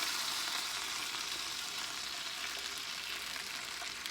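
Chicken thighs sizzling in a pan of butter, garlic and honey glaze off the heat, a steady hiss that eases slowly as the pan cools.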